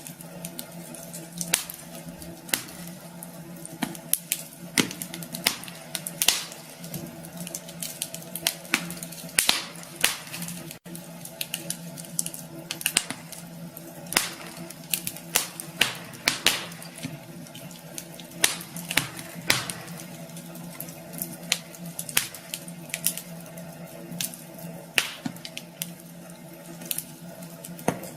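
Wood fire crackling in a fireplace, with frequent irregular sharp pops over a steady low hum.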